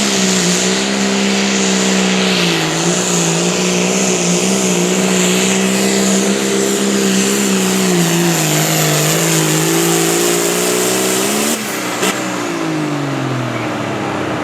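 A competition pulling vehicle's engine runs flat out at high revs under load during a pull, its pitch wavering slightly. After about eleven and a half seconds the throttle is cut and the revs fall away.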